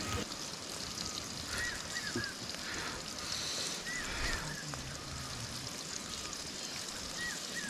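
Steady rush of river water, with small groups of short, high, arching chirps from a small animal every couple of seconds.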